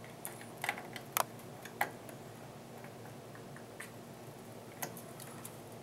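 Small sharp clicks and taps of hands working on computer parts while straightening a bent connector pin on the motherboard, a cluster of them in the first two seconds and one more near the end.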